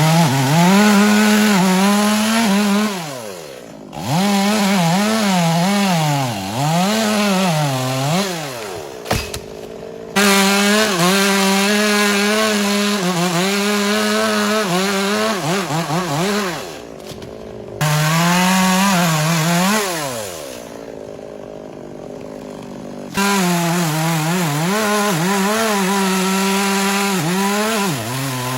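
Two-stroke chainsaw running at high revs while cutting wood, its pitch wavering and dipping as the chain takes the load. Several times it falls back toward idle, then returns to full speed.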